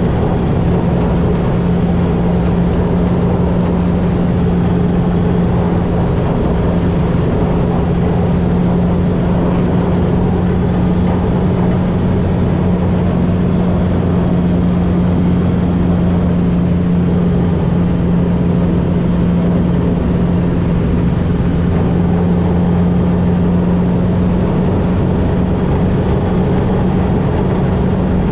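Light aircraft's engine and propeller running steadily at a constant speed.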